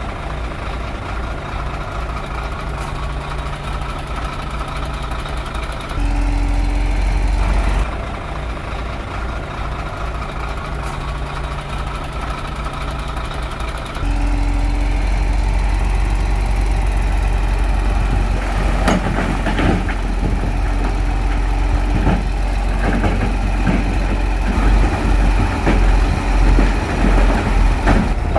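Heavy Shantui bulldozer's diesel engine working, getting louder under load for a couple of seconds about six seconds in and again from about halfway through, with metallic clanks in the second half.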